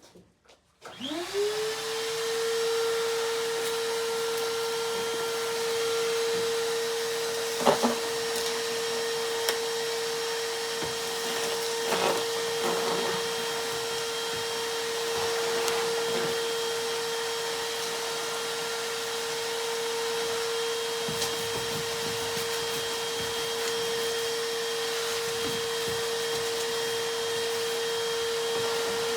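Shop vac switching on, its motor whining up to speed in about a second, then running steadily with a loud rushing hiss. A few brief knocks and rattles come through as it runs.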